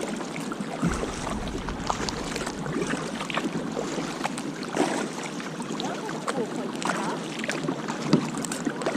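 Kayak paddle dipping and splashing with water dripping, in irregular small splashes over a steady rushing noise of water and wind.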